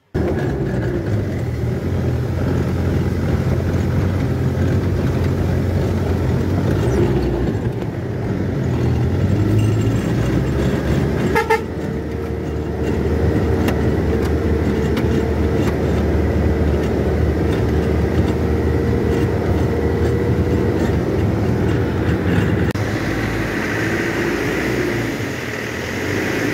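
Truck engine running while driving, a steady low drone throughout. Partway through, a sharp short sound comes, and then a steady high tone is held for about ten seconds.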